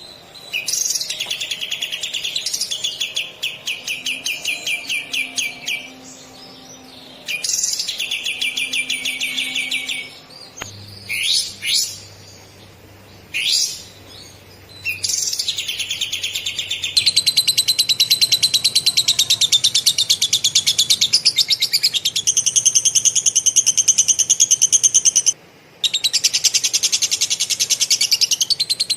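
Kapas tembak (katem) songbird singing fast, tightly packed trilled phrases in lovebird style. First come several short bursts and a few quick sweeping notes, then long unbroken rolls, broken once briefly near the end.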